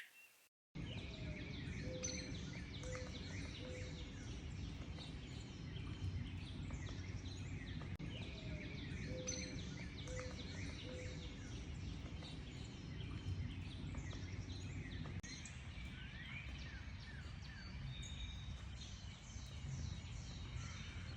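A dense chorus of many songbirds chirping, twittering and trilling over a steady low rumble of background noise, starting after a brief gap. Twice, a lower call sounds three short notes in a row.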